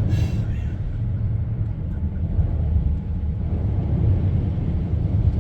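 Steady low rumble of a vehicle driving slowly through a flooded street, with a brief hiss right at the start.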